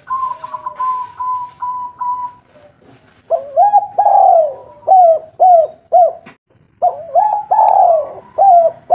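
Spotted dove (tekukur) calling. A higher, steady note is held for a couple of seconds, then after a short pause come two runs of short arching coos, about two a second.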